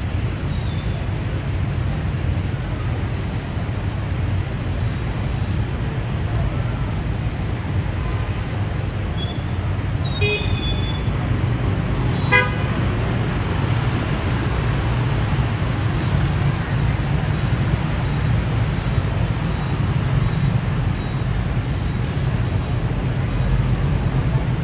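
Steady city street traffic noise with two short vehicle horn toots near the middle, the second one louder.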